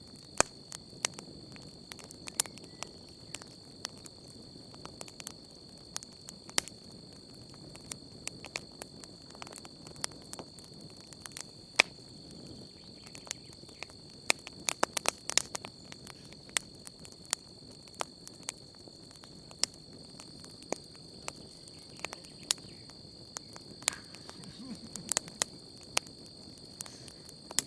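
Wood campfire crackling with irregular sharp pops, the loudest about twelve seconds in, over a low steady hiss of flame. Beneath it runs a steady high chirring of crickets.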